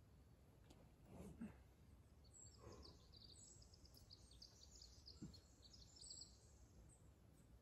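Quiet forest ambience with a small bird faintly singing a rapid, high twittering series of notes, starting about two seconds in and stopping about six seconds in.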